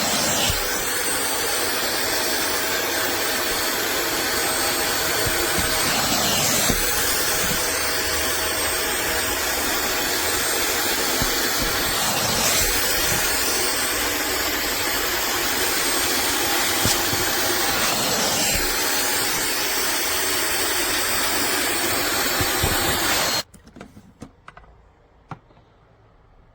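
A 400 W upholstery wet vacuum's suction motor running with a steady whine and a whoosh of air, its pitch dipping briefly about every six seconds. It cuts off suddenly near the end, leaving a few faint clicks.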